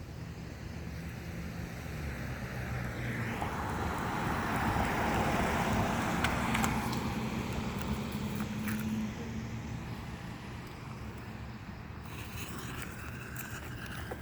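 A car driving past: engine hum and road noise swell over a few seconds and fade away again, with a few faint sharp cracks on top.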